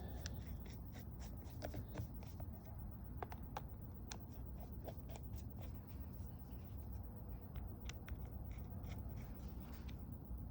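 Faint, scattered light clicks and ticks of small screws being handled and started by hand into a rebuilt snowmobile fuel pump's cover, over a steady low background hum.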